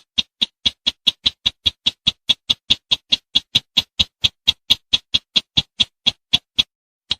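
Call of the sintar, the slaty-breasted rail: a fast, even run of sharp, dry ticking notes, about four or five a second. The run breaks off near the end, and a single note follows.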